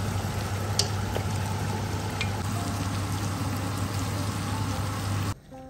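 Food sizzling in a cooking pan over a steady low hum, with a faint click or two. It stops abruptly about five seconds in.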